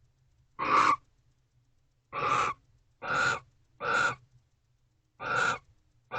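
Barn owl screeching: five short, harsh screeches at irregular intervals of roughly one to one and a half seconds. They come during a face-off between two barn owls at the nest box, and the uploader cannot tell whether the calls are a welcome or a challenge to an intruding male.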